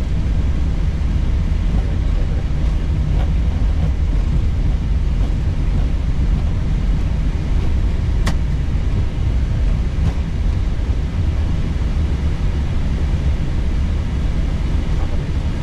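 Steady low rumble in the cockpit of an Airbus A321neo slowing on the runway after touchdown, below 70 knots: wheels rolling on the runway with engine and airflow noise. A single sharp click comes about eight seconds in.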